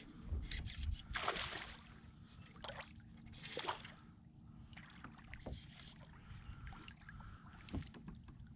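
Water splashing and sloshing against a fishing kayak in a handful of short separate bursts, over a low steady hum.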